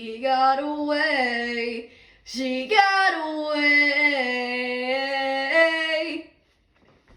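A solo voice singing without accompaniment: a short phrase, then a long held note that stops about six seconds in.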